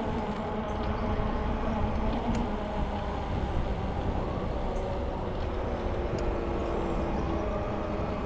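Steady rolling hum of a bicycle ride, tires humming on the road, with a few faint ticks.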